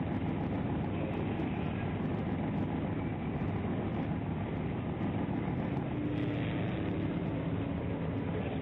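Steady low rumble of vehicle and road noise, with no clear events.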